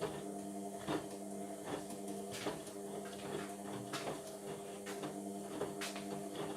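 Indesit washing machine running partway through a Cotton 40/45 cycle: a steady motor hum with irregular sharp clicks and knocks from the turning drum.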